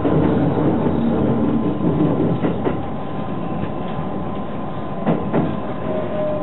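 Electric train running, heard from inside the front cab: a steady motor hum over wheel and rail noise, fading about halfway as the train comes into a station. Twice the wheels clack in quick pairs over rail joints, and a thin whine comes in near the end.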